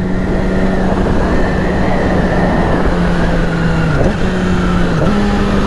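Yamaha R6 inline-four motorcycle engine running steadily at cruising speed, with wind rushing over the microphone. The engine note dips briefly twice near the end.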